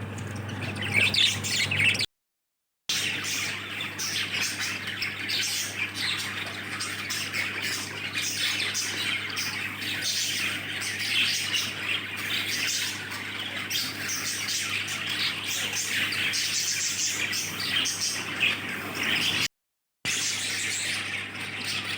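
A flock of caged lovebirds chirping and squawking continuously, many birds calling over one another, with a steady low hum underneath. The sound cuts out completely twice, briefly, about two seconds in and near the end.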